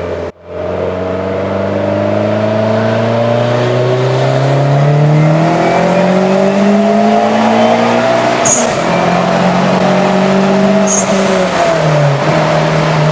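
Car engine under steady acceleration, its pitch rising slowly for about eight seconds, then falling sharply at a gear change and holding at a steady cruise, with another dip near the end. A short high hiss comes around each change.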